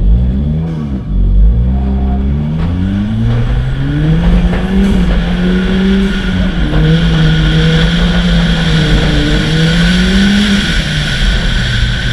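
Ford Fiesta ST rally car's turbocharged four-cylinder engine under hard throttle: a couple of quick revs, then pulling up through the revs and rising and falling in pitch as it is driven, easing off near the end, with a rising hiss of tyres and loose surface beneath.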